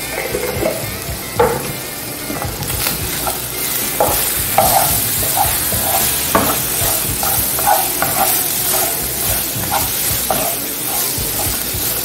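Sliced toscana sausage with grated carrot and garlic sizzling in oil in a non-stick frying pan, while a wooden spoon stirs and scrapes through it in quick repeated strokes. The stirring gets busier from about four seconds in.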